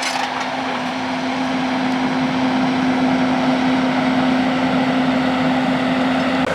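Excavator engine running steadily with an even hum as the machine works pulling fence posts.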